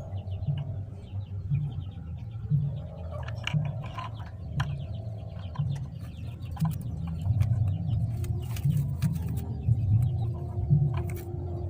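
Birds calling, with many scattered sharp clicks and small handling noises.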